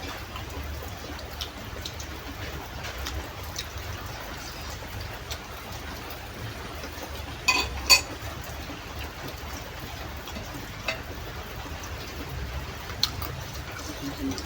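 Spoon and soup bowl clinking during a meal: scattered light clicks, then two sharp, ringing clinks in quick succession about halfway through, over a steady low hum and hiss.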